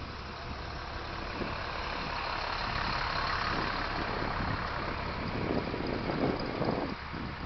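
A 1930 Cadillac's engine idling with a steady low hum, and a wider rush of noise that swells through the middle and eases near the end.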